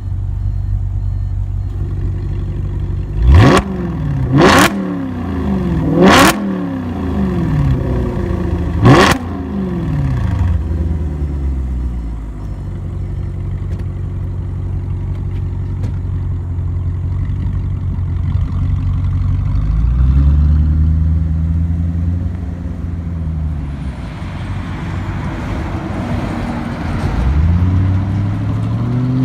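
Audi RS4 Avant engine idling through an Armytrix valvetronic aftermarket exhaust, blipped sharply four times in quick succession over the first ten seconds. It then settles back to idle, with two slower, gentler revs later on.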